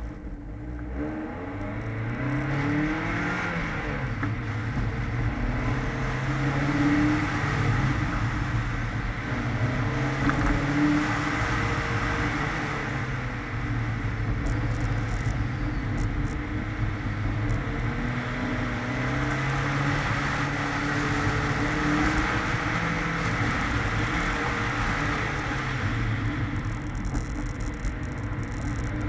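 Mazda MX-5 Miata's four-cylinder engine pulling away hard from a standing start, its pitch climbing over the first few seconds. It then revs up and down over and over as the car accelerates between cones and lifts off or brakes for the turns.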